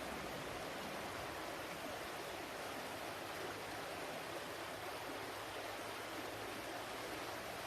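Flowing water rushing steadily and without a break, as from a stream.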